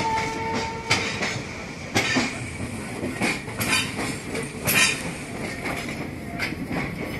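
Passenger trains running at speed side by side on parallel tracks, heard through an open coach window: wheels clank and clack irregularly over rail joints above a steady rumble and hiss. A brief steady tone sounds in the first second.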